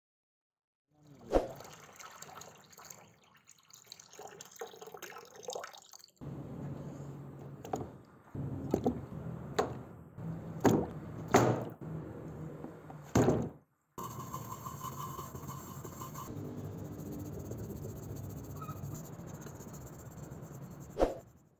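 Water splashing and dripping in a plastic tub as rusty hand-drill parts are dunked and handled in it. Several sharp knocks, metal parts striking the tub, come through the sloshing.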